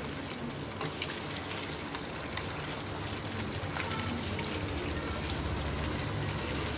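Mutton and potato pieces sizzling and crackling in ghee in a nonstick wok as they are stirred and fried, with a steady hiss peppered with small spattering pops over a low steady hum.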